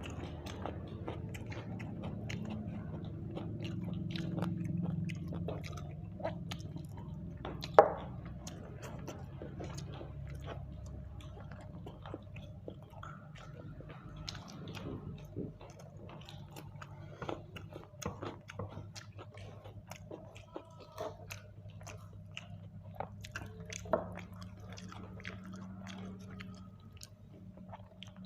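A person chewing and biting grilled chicken close to the microphone, with many small wet mouth clicks and smacks throughout. A sharper, louder click comes about eight seconds in, and another near the end.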